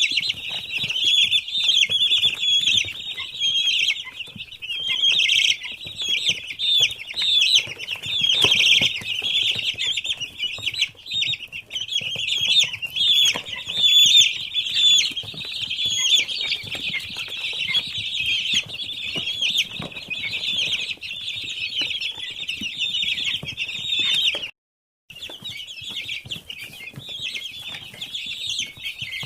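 Many young farm chickens peeping continuously, a dense overlapping chorus of high chirps, breaking off for a moment near the end.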